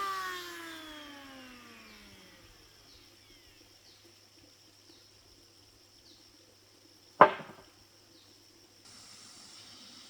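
Power saw motor winding down after a cut, its whine falling steadily in pitch and fading out. About seven seconds in, a single sharp knock rings briefly, and a faint steady hiss starts near the end.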